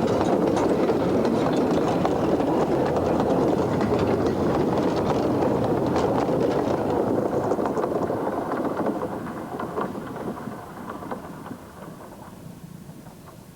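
Narrow-gauge train running along the track: a dense, steady rattle that fades away over the last five seconds or so.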